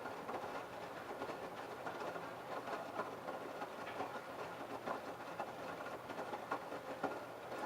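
LG F1222TD direct-drive washing machine running its baby-care prewash, the drum turning with irregular soft knocks over a steady low hum and constant wash noise.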